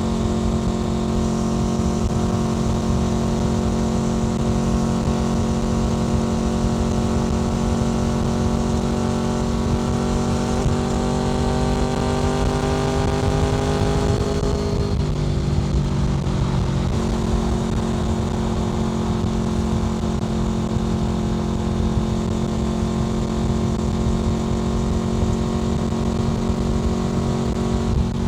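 Honda VFR800 FI's 90-degree V4 engine through a Black Widow aftermarket exhaust, running at a steady cruising note with wind noise. Its pitch rises slowly from about ten seconds in, then drops about halfway through and holds steady again.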